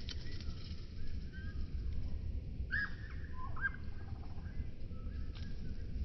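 Bird calls slowed down to a low, drawn-out, eerie sound: a few loud gliding calls about three seconds in and fainter chirps later, over a steady low rumble, with a couple of brief clicks.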